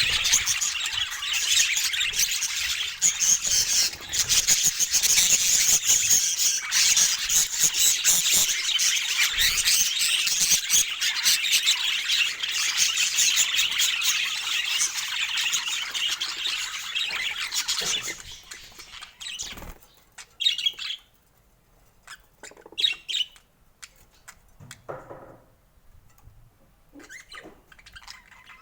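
Pet budgerigars chattering and squawking in a dense, continuous warble, which thins out after about 18 s to a few scattered short calls and small clicks.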